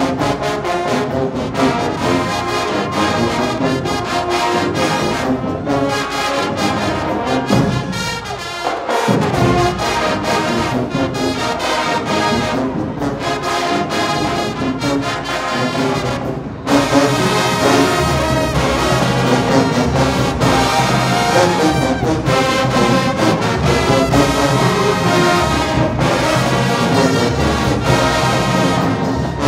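Show-style high school marching band playing, led by trombones and trumpets. Partway through, the low brass slides downward in pitch. A little past halfway, the band comes in suddenly louder and fuller.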